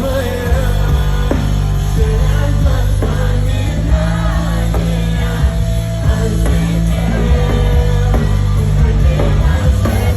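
Loud live concert music: a singer's voice over a bass-heavy band backing.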